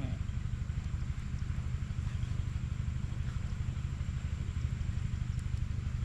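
A small engine running steadily at a low, even pitch with a fast regular throb.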